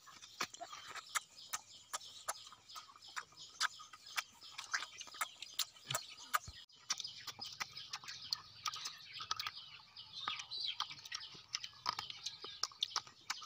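Close, crunchy biting and chewing of raw guava: sharp, irregular crunches, several a second, with bird calls in the background.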